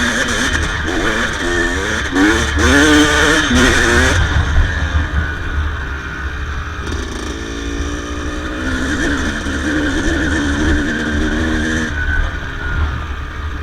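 Yamaha YZ250 two-stroke single-cylinder dirt bike engine running, the revs rising and falling repeatedly in the first few seconds, then settling to a lower, steadier note with smaller rev changes.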